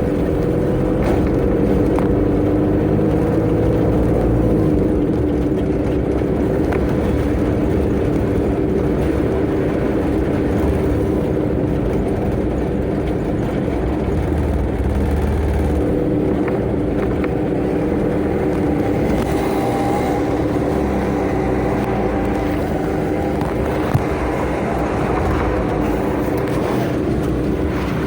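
Tata Ace mini truck's engine running steadily under way, a constant drone over road and tyre noise, with one short click about 24 seconds in.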